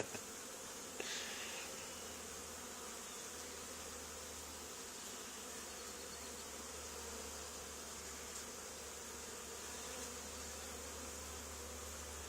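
Honey bee swarm buzzing, a steady continuous hum of many bees with no rise or fall, as the swarm sits on the ground and walks into a box.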